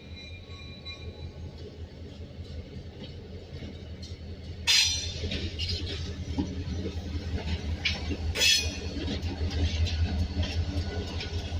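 Georgia & Florida Railway freight train with EMD diesel locomotives rolling past, a steady low engine rumble under clicking and clanking wheels that grows louder as it approaches. Two brief, sharp metallic sounds stand out, about five seconds in and again about three and a half seconds later.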